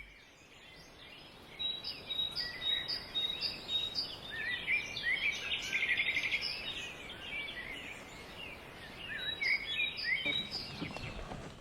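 Wild songbirds chirping and trilling over a soft, steady background hiss, in many short, high repeated notes. The singing is busiest in the middle and again near the end.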